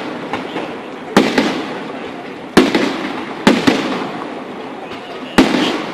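Fireworks bursting: about six sharp bangs, some in quick pairs, each trailing off in an echoing rumble, the loudest about halfway through.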